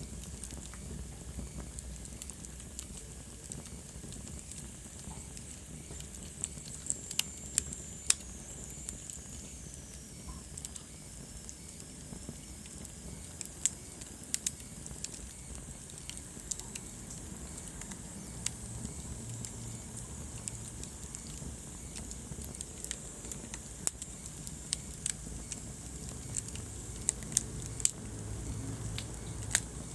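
Wood fire burning in a fireplace: irregular crackles and sharp pops, a few of them loud, over a low steady rumble of flames. A faint high whistle slowly drops in pitch about a quarter of the way in.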